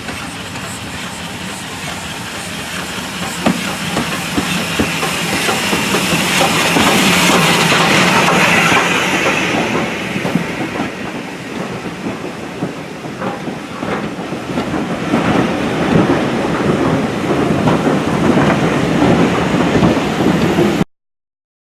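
Steam-hauled train passing, its wheels clicking over the rail joints with a steady hiss. The sound builds to its loudest about seven to nine seconds in, eases, then cuts off suddenly near the end.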